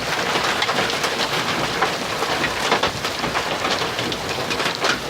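Heavy rain pouring steadily, with many sharp hits of drops or hailstones striking a hard surface close by.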